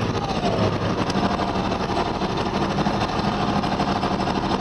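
Heavy truck's engine running steadily on the throttle with a low drone, and a faint steady whine from about a second in.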